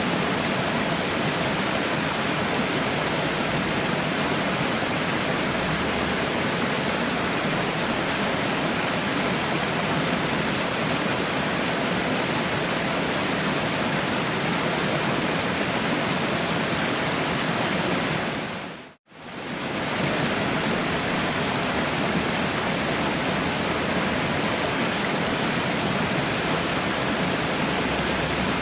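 Waterfall rushing: steady water noise that fades out to silence for a moment about two-thirds of the way through, then fades straight back in.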